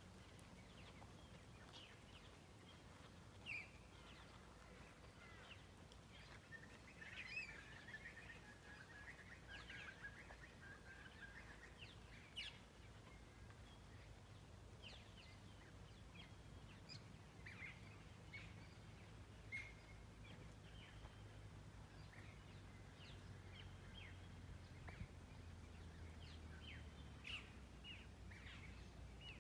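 Near silence, with faint bird chirps and calls scattered through and a longer warbling call about a quarter of the way in, over a steady low background hum.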